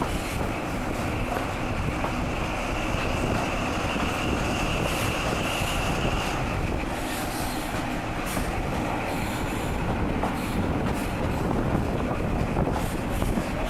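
InterCity 125 HST train running along the track: a steady rumble, with a faint high wheel squeal from about two to six seconds in and scattered sharp clicks.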